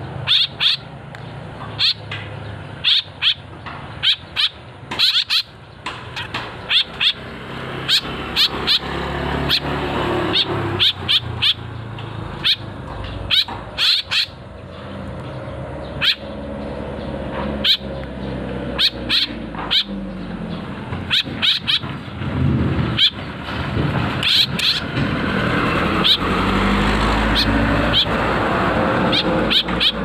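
Young caged birds giving short, sharp calls, repeated at irregular intervals, over a low engine hum that grows louder in the last several seconds.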